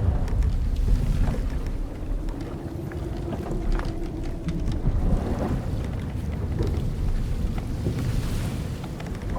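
Wooden sailing ship creaking at sea: one long drawn-out creak of timber from about a second and a half in to about five seconds, with scattered small creaks and knocks, over a steady low rumble of wind and waves.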